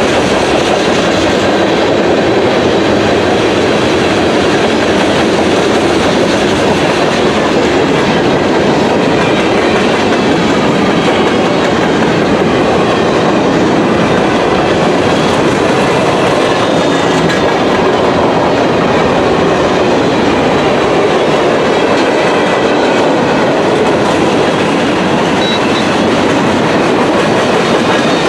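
Freight train cars rolling past, their steel wheels running on the rails in a steady, loud rumble.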